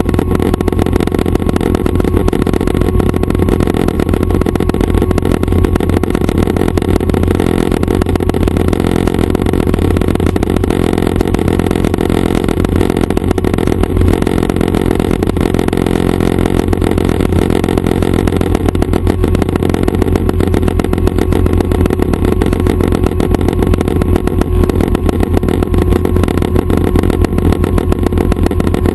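Schweizer 269 light helicopter's piston engine and main rotor running steadily, a loud, even drone.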